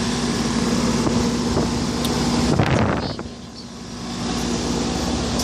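1996 Rheem 4-ton central air conditioner condenser running under load: a steady hum from its Copeland scroll compressor and the rush of its two-bladed condenser fan. About two and a half seconds in there is a brief rushing burst, then the sound drops for about a second before coming back.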